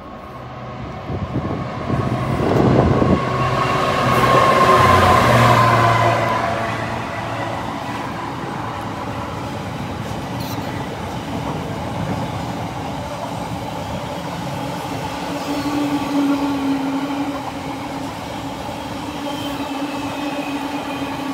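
Container freight train passing through at speed. It comes up fast and is loudest in its first few seconds, its pitch falling as the front goes by, then settles into the steady rumble and clatter of the container wagons running past.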